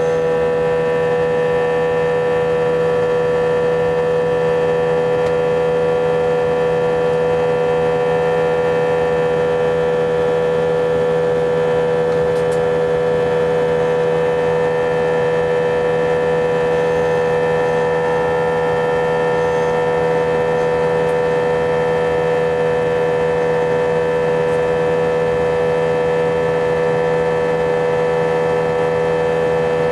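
Airbus A320 engine noise heard inside the passenger cabin: a loud, steady drone carrying several unchanging tones, strongest in a mid-pitched hum. The noise is abnormally loud and comes with strong vibration, which passengers took for a sign that something was not right.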